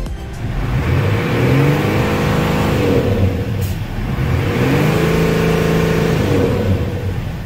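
An engine revving up and dropping back, twice: the pitch climbs over about two seconds, holds, falls, then climbs and falls again near the end.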